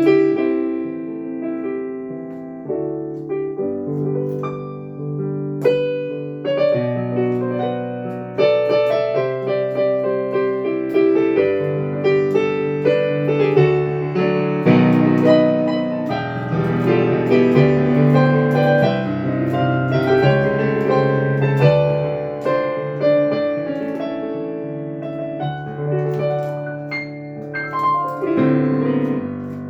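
Solo piano playing chords under a melody line, the notes thicker and busier in the middle of the passage and sparser near the start and end.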